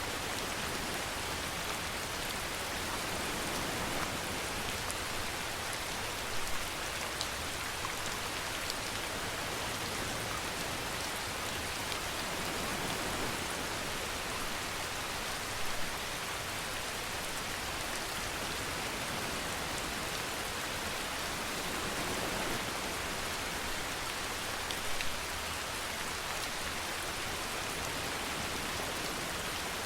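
Steady rainfall, an even hiss of drops, with a few brief louder spatters spread through it.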